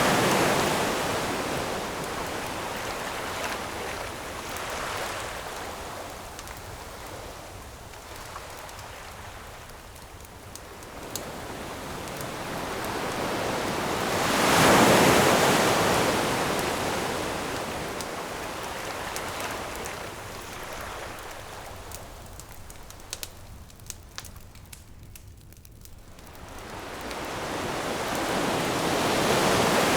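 Ocean waves washing onto a shore in slow surges, one cresting about halfway through and another building near the end. Sparse crackles and pops from a burning wood campfire are heard in the quieter lulls between them.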